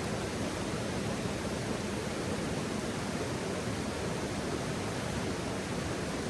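Steady rushing of flowing river water, an even noise that does not change, with no distinct crackles from the fire.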